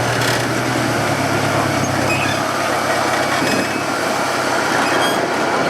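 Rock crawler's engine running, its low note easing off about two seconds in.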